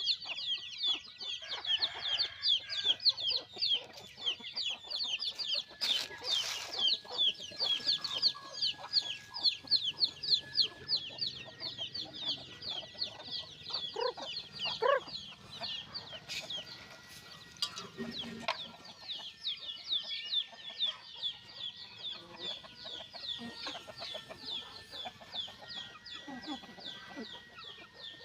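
A flock of chicks cheeping without pause: many short, high, falling peeps overlapping, with a few lower clucks from grown chickens partway through.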